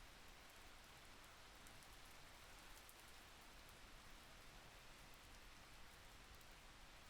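Faint, steady rain-sound ambience, an even hiss with light scattered drop ticks.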